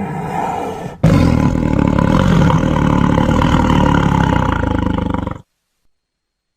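Tiger roaring: one long, rough roar of about four seconds that cuts off suddenly, after the tail of a previous call.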